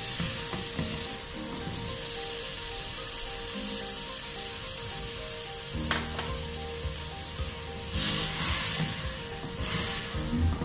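Chopped tomatoes and spice masala sizzling in hot oil in a pan, stirred with a spatula, the stirring louder near the end.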